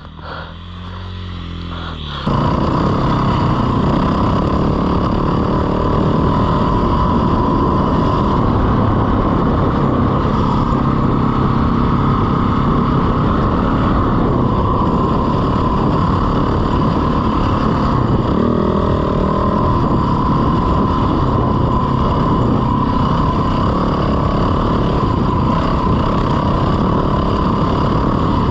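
Husqvarna FE450 four-stroke dirt bike engine idling low for about two seconds, then pulling away suddenly and running steadily under way.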